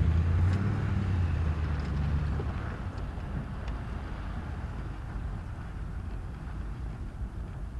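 An off-road vehicle driving on a dirt trail: a steady engine hum that fades away over the first two to three seconds, leaving a low rumble of tyre and road noise.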